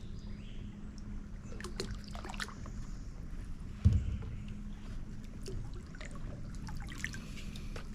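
Scattered clicks, taps and rattles of fishing gear being handled in a kayak, with one heavy thump about four seconds in.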